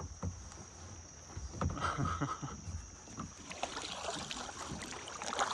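Kayak paddle dipping and splashing in river water, with irregular small knocks and drips.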